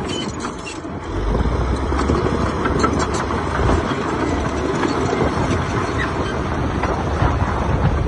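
Heavy diesel earthmoving machinery running steadily, a low engine rumble that grows louder about a second in.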